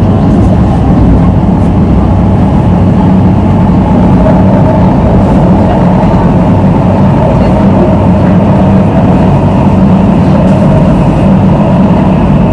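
MTR South Island Line S-Train electric train running at speed through a tunnel, heard from inside the train: a steady loud rumble of wheels on rail with a constant hum.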